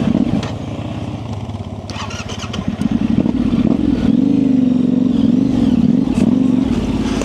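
2024 Yamaha Tenere 700's parallel-twin engine with an aftermarket high exhaust, run at low revs on the clutch: it eases off for the first couple of seconds, then picks up again about three seconds in with the revs wavering up and down. A few light clicks come about two seconds in.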